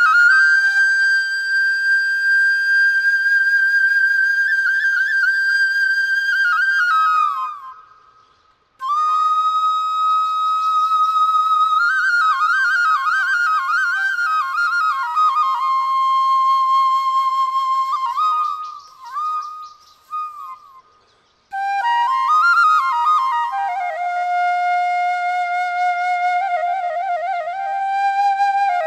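Background music: a solo flute plays a slow melody of long held notes with ornamented runs between them. There is a short break about eight seconds in and another around nineteen to twenty-one seconds in.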